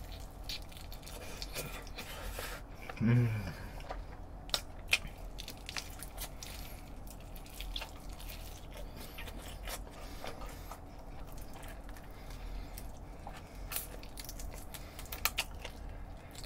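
Close-up biting and chewing of crispy fried chicken (Goobne Gochu Basasak), with scattered short crunches and wet mouth clicks. A brief hummed voice sound about three seconds in.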